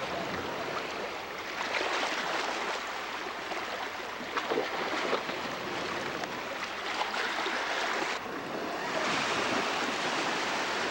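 Steady rushing and splashing of water, with small splashes flickering through and no engine drone underneath.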